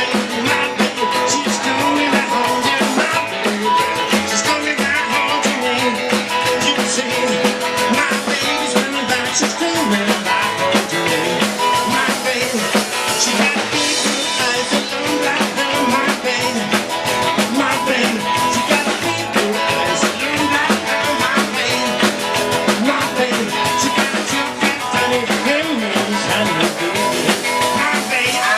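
Live rock and roll band playing, with the drum kit prominent.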